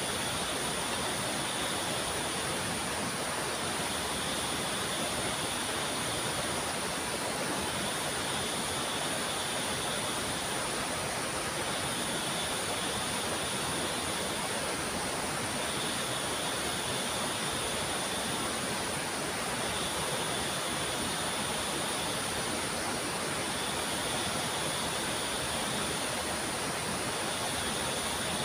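Waterfall and rapids rushing in a steady, unbroken roar of water, with a high tone pulsing on and off about every four seconds over it.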